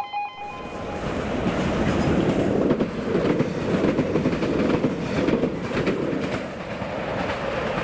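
A train running past on the railway line, the rumble and rattle of its wheels on the rails building over the first couple of seconds and easing slightly near the end.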